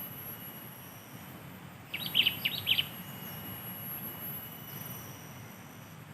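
Sooty-headed bulbul calling: one quick burst of about five bright chirping notes, about two seconds in.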